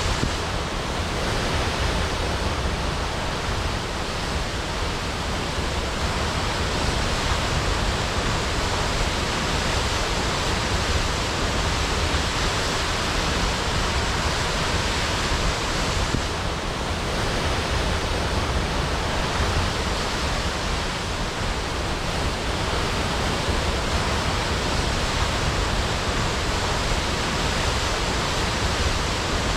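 Waterfall crashing: a steady, unbroken rush of falling water.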